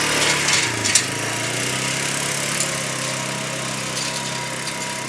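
Small gas engine of a 1960s pull-behind lawn mower running steadily, with a few sharp clicks and a brief dip in pitch within the first second.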